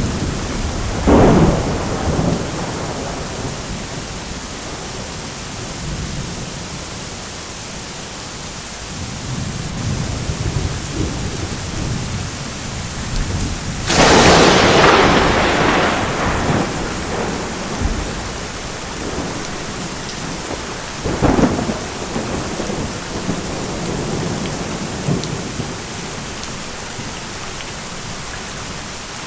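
Thunderstorm: steady heavy rain with thunder. A sharp crack comes about a second in, the loudest clap about halfway through fades out over a couple of seconds, a third crack follows some seven seconds later, and low rumbling runs in between.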